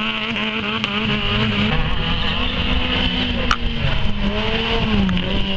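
Small-car engines held at high revs, the revs wavering up and down, as a Fiat Seicento passes close and a Fiat 126p corners hard. A brief sharp click about three and a half seconds in.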